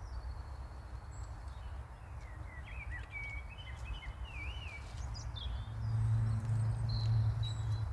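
Songbirds singing, with whistled and warbling phrases, over a steady low rumble that grows louder a little past halfway.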